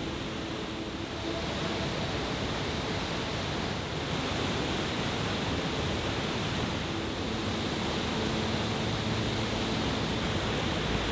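Steady rushing roar of a waterfall running high with rainwater, growing a little louder about four seconds in.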